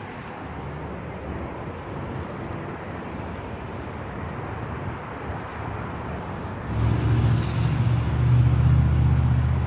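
Outdoor road-traffic noise. About seven seconds in, a motor vehicle's engine rumbles in much louder and holds there to the end.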